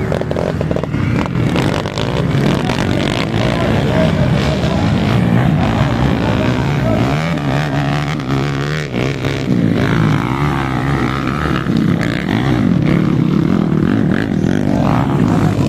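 Several underbone motorcycle engines revving hard together, the pitch rising and falling as riders work the throttle through the race.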